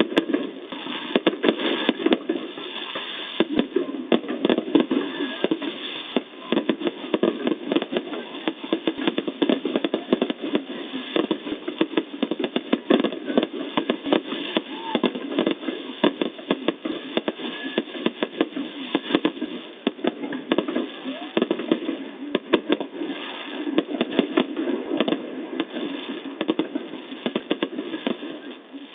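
Fireworks going off without a break: a dense run of pops and bangs, many a second, over a steady background din.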